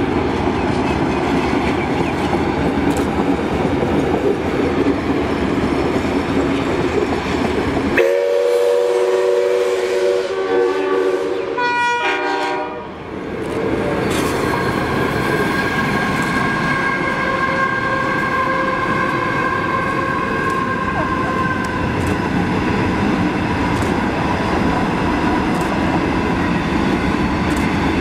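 Trains running past on the main line, a dense steady rumble of locomotives and wheels on rails. About eight seconds in, horn notes cut through, and from around the middle a locomotive horn sounds a long steady two-note blast lasting some seven seconds.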